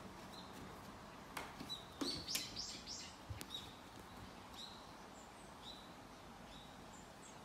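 Small birds chirping outdoors in short, quick, rising calls, one every second or so, with a run of louder chirps about two seconds in. A few sharp clicks or knocks fall between one and three and a half seconds in.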